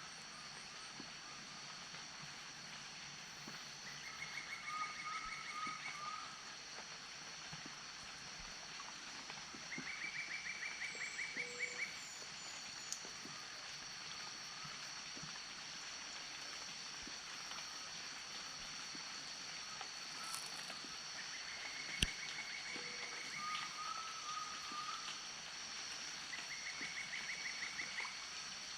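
Wetland wildlife ambience. A steady high-pitched drone runs throughout, and a pulsed trill lasting about two seconds repeats several times. Scattered bird calls include a short falling series of high notes and lower chirps, and there is one sharp click about two-thirds of the way through.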